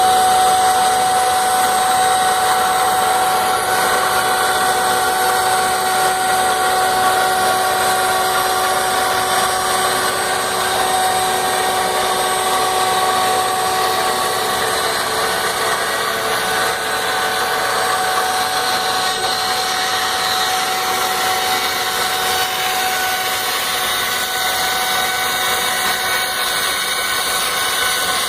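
CNC router spindle running steadily, cutting acrylic (plexiglass) sheet: a constant whine over an even cutting noise with no pauses.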